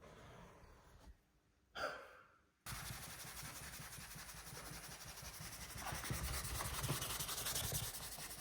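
Soft brush scrubbing over a car's painted body, loosening the soaked-in dirt. The brushing starts abruptly a little under three seconds in and then runs as a steady scratchy rubbing.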